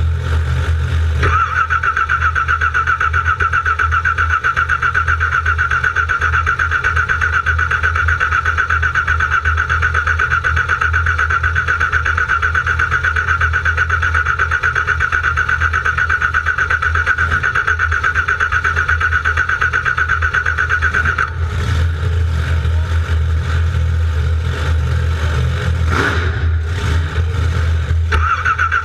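Car engine cranking on its starter motor without catching: a fast, evenly pulsing starter whine for about twenty seconds, then stopping, followed by two short cranks near the end.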